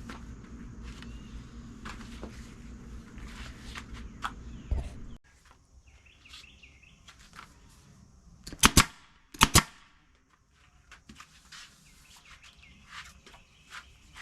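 Staple gun driving staples into a boat-seat cover: scattered sharp clicks, then two loud shots a little under a second apart near the middle. A steady low hum runs underneath and cuts off suddenly about five seconds in.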